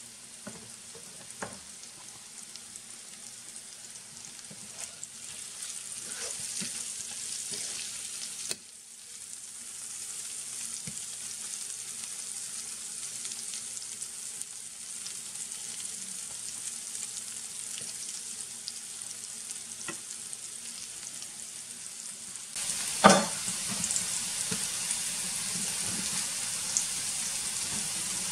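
Potato cubes sizzling as they fry in oil in a nonstick skillet, with small clicks and scrapes of a spatula stirring them. The sizzle gets louder twice, and a single sharp knock comes about 23 seconds in.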